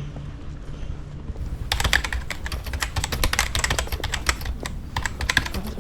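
A rapid, irregular clatter of sharp clicks, like keys being typed, starting about two seconds in, over a low steady hum.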